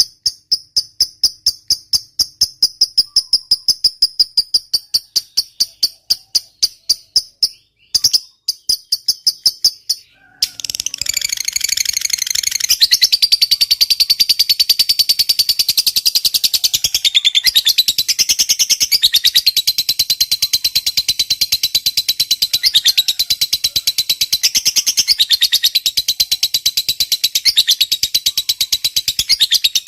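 Lovebird calling: a regular series of high, rapid chirps, then after a brief break about ten seconds in, a long, loud, unbroken rapid chattering trill, the 'ngekek panjang' that keepers prize in a singing lovebird.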